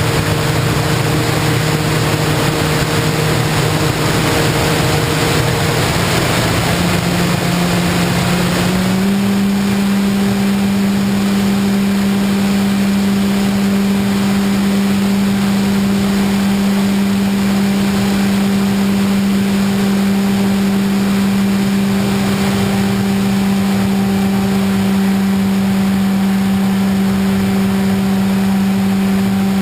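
The motor and propeller of an FPV model airplane in flight, a steady hum over a rush of noise. About six to nine seconds in, the pitch rises as the throttle comes up, then holds steady.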